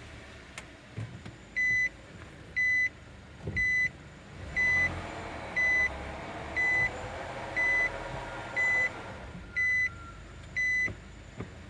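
Nissan Tiida's reverse warning buzzer beeping ten times, about once a second, with the car in reverse and the engine running. Under it a whining drone from the drivetrain swells in the middle: the groan that comes with the wheels turning and is put down to internal damage in the CVT.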